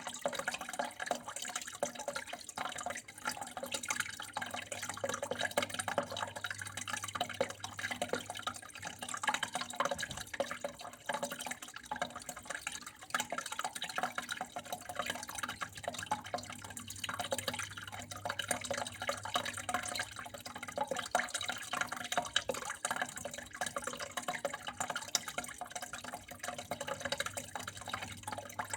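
Flowing water trickling and splashing steadily, full of small drips and droplet splashes, with a faint low hum underneath.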